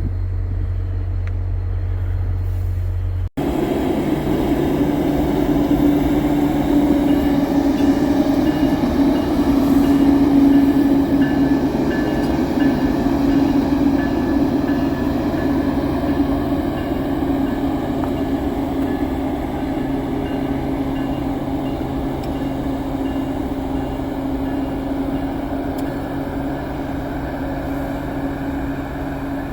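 A low hum, then an abrupt cut to a Siemens test train for VIA Rail running past, with a steady drone and whine over the rolling noise that swells and then slowly eases off.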